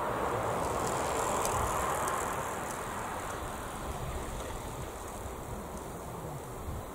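A passenger train's wheels running on the rails, a steady rumble that eases off about two seconds in as the train draws away.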